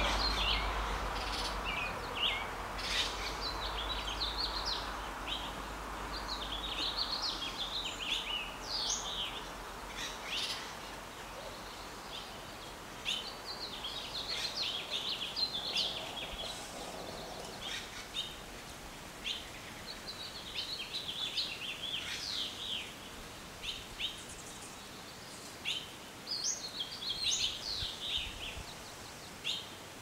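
Small birds chirping and twittering: clusters of short, quickly rising and falling high notes that come every few seconds. A low rumble runs under the first several seconds.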